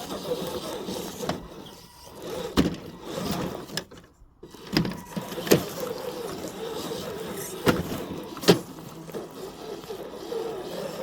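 Electric motor and gearbox of an FMS FJ40 RC crawler whining, rising and falling in pitch with the throttle, cutting out briefly about four seconds in. About five sharp knocks break in along the way.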